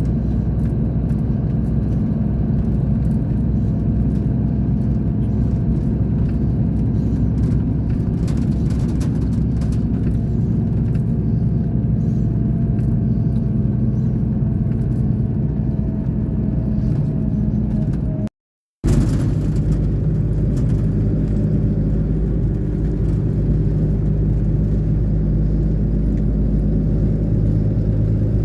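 Scania K420 bus engine running steadily with a low rumble, its pitch holding fairly even. It cuts out completely for about half a second two-thirds of the way through, then carries on unchanged.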